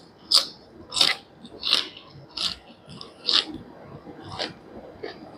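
Close-miked chewing of food, a crisp crunch about every 0.7 seconds that grows softer in the second half.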